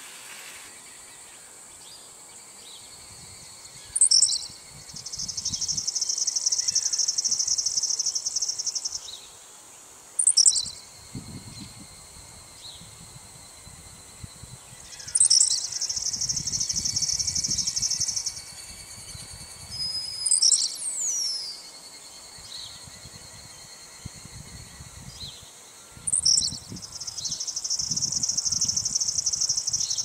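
A songbird singing in the open, repeating one song about every ten seconds: a sharp high note, then a fast, buzzy high trill lasting three to four seconds. Another bird gives a falling whistle about two-thirds of the way through, and low rumbles come and go underneath.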